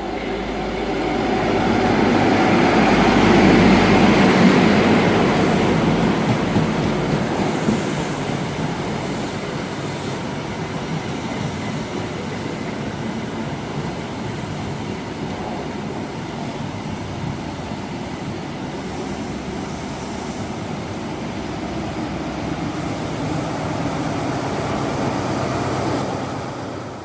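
A train running through the station, loudest about four seconds in, then a steady noise of running wheels and machinery that drops away near the end.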